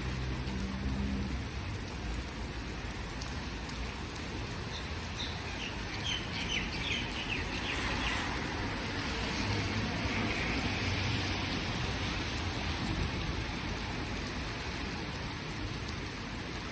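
Steady rain falling, with a short run of bird chirps about a third of the way in.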